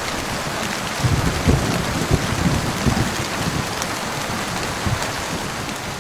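Heavy rain falling steadily, with big drops landing close by as short, dull knocks scattered throughout.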